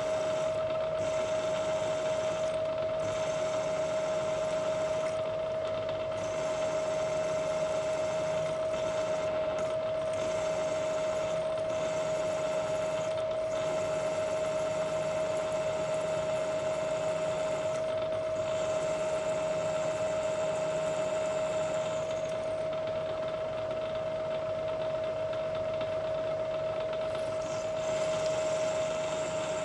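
Vertical milling machine running with a steady high whine that holds one pitch throughout, while drilling clearance holes for socket head cap screws in A2 steel vise jaws.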